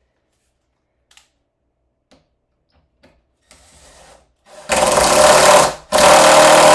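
A few light knocks, then a power drill driving a screw into wood in two loud bursts, the first about five seconds in and the second, longer one just after it, with a steady motor whine.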